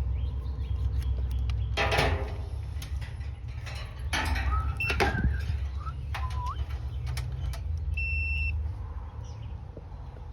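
Clicks and knocks of hands and tools working wires loose in an air conditioner's electrical box, over a steady low rumble. A few short chirps come in the middle, and a short beep sounds about eight seconds in.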